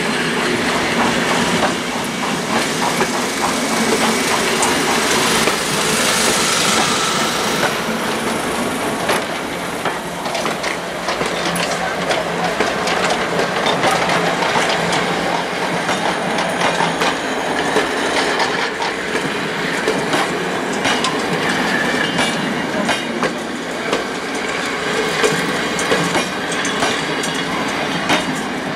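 Passenger coaches rolling past, their wheels clattering over the rail joints in a steady stream of knocks and rumble.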